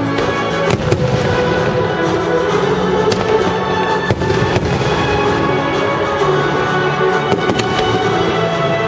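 Aerial fireworks shells bursting in a string of sharp bangs at uneven intervals, over steady music.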